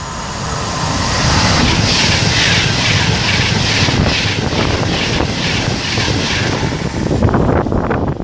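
Virgin Trains Class 390 Pendolino electric train passing through the station at speed. A loud rush of wheels and air builds over the first second, then carries a regular beat of wheelsets going by, about three a second.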